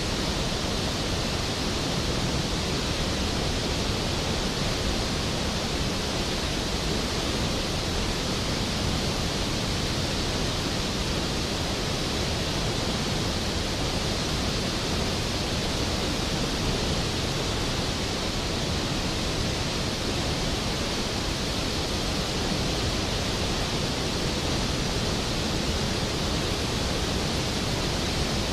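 Skógafoss waterfall: a heavy, steady roar of falling water, even and unchanging throughout.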